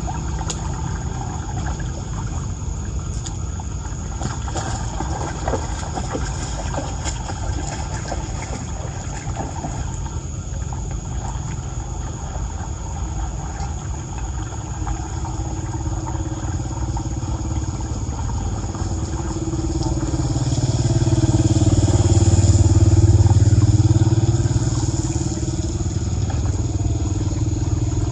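A motor vehicle passing close by: its engine sound swells and falls away about twenty seconds in, over a steady low rumble.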